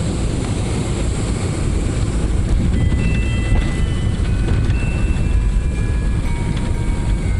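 Airliner cabin noise on the landing rollout just after touchdown: a heavy, steady rumble of the wheels on the runway and the engines, growing louder about two seconds in. A faint tune of held notes comes in about three seconds in.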